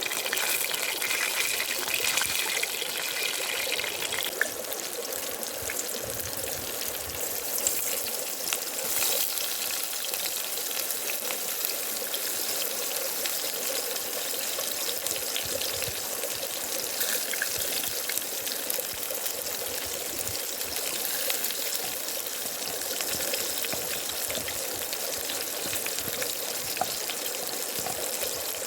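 Food frying in hot oil in a pan: a steady sizzle with fine crackles.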